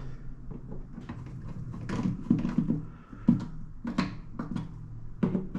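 A few sharp clicks and knocks, about a second apart, from handling a newly installed rocker light switch at the wall box, over a low steady hum.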